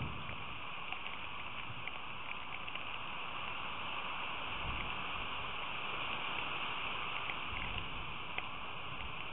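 Steady rain hiss with scattered ticks of drops striking close by, and a couple of brief low rumbles, heard through a narrow-band outdoor camera microphone.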